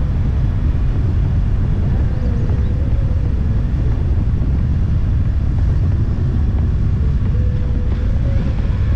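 BMW F 850 GS motorcycle under way: its parallel-twin engine running under a steady low rumble of wind and road noise.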